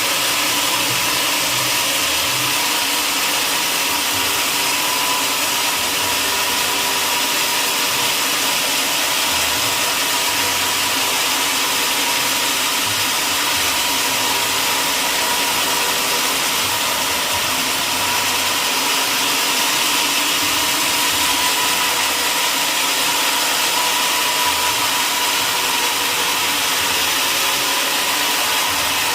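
Sawmill saw running steadily, a constant noisy whir with a faint steady whine and no change in pitch or level.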